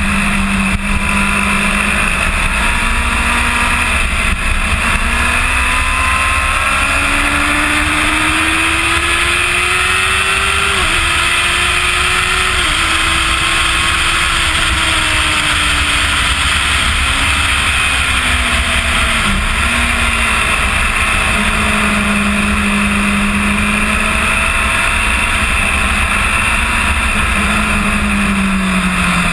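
Kawasaki ZX-10R's inline-four engine at speed on a circuit, heard through heavy wind rush on the bike-mounted camera. The revs climb and it shifts up twice midway, then the revs fall away through downshifts before holding steady.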